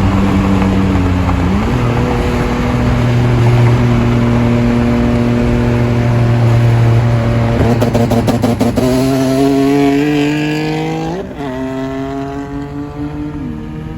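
Turbocharged Nissan V6 car engine running loud at a steady pitch, then pulling hard with the revs climbing through two quick upshifts in the last few seconds.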